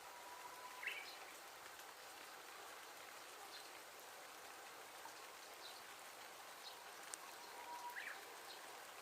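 Faint, steady hiss of rain and running water at a pond swollen by heavy typhoon rain. A short call, a held note then a quick rising note, comes twice: about a second in and near the end.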